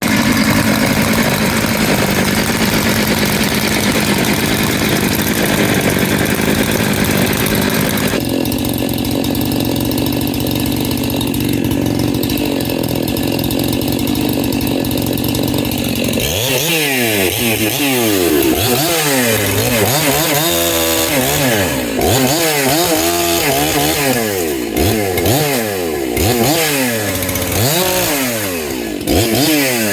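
Large 70–80cc two-stroke chainsaw running at a steady high speed, then, from about halfway, its engine speed rising and falling again and again.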